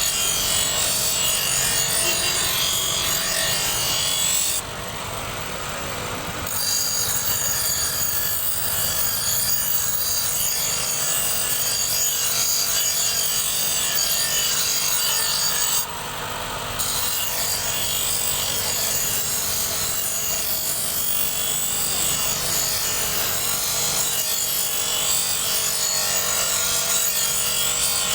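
Knife blade held against a spinning sharpening wheel, a steady harsh grinding rasp. The grinding stops briefly twice, about five seconds in and again around sixteen seconds, as the blade comes off the wheel, then resumes.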